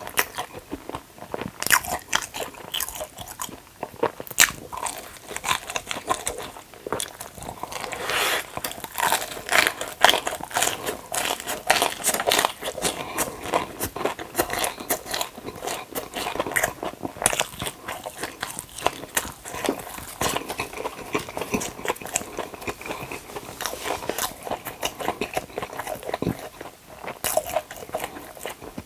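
Close-miked crunchy biting and chewing, a steady run of sharp irregular crunches as food is eaten.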